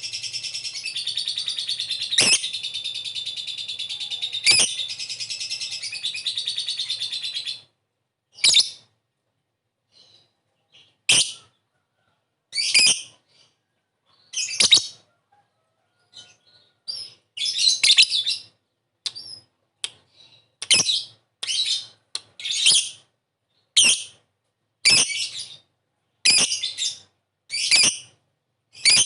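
Lovebird chattering in a long unbroken high-pitched run, pierced by a few sharp loud calls, that stops abruptly after about seven seconds. After it come short shrill calls, one every second or two, with silence between.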